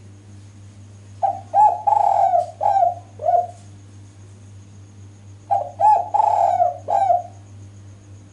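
Female spotted dove (derkuku) cooing: two phrases of several low coo notes, a few seconds apart. It is a female call used to lure male doves into answering.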